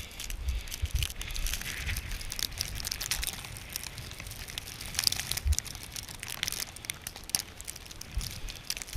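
Irregular crunching and crinkling of footsteps in deep, fresh snow, with uneven low rumbles of wind buffeting the microphone.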